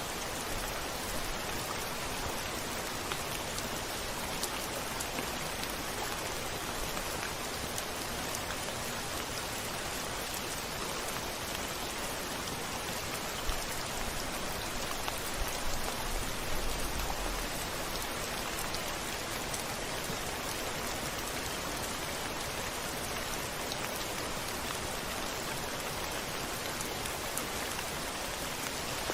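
Steady rain falling on a window, an even hiss of drops, with a brief low rumble about halfway through.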